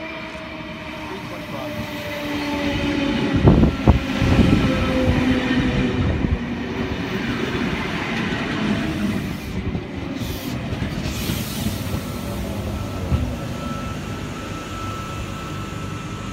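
A V-set double-deck electric intercity train pulling into the platform and braking to a stop. A falling whine sounds as it slows, two heavy thumps come about three and a half seconds in, and then the cars rumble past.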